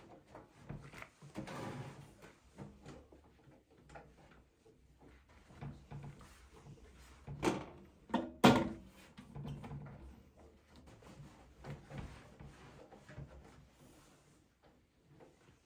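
Kitchen handling sounds: scattered light clicks and knocks throughout, with two loud knocks in quick succession about halfway through.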